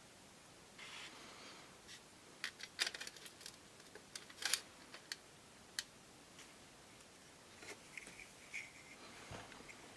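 Light clicks and taps of small metal parts being handled, with a brief scrape about a second in and a quick run of sharper clicks a few seconds in.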